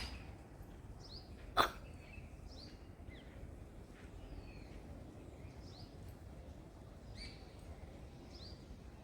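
Small birds chirping, short high notes that slide downward, repeated every second or so over a faint outdoor hiss. About one and a half seconds in there is a single loud, sharp, brief noise.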